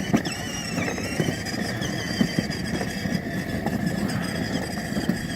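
Children's battery-powered ride-on SUV driving along: its electric motor and gearbox whine steadily at a high pitch, and the plastic wheels crackle over concrete.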